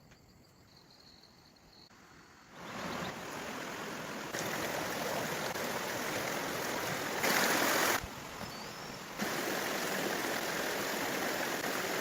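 Flowing water: a steady rushing hiss that comes in after about two and a half quiet seconds, then jumps abruptly in loudness several times and is loudest briefly around seven to eight seconds in.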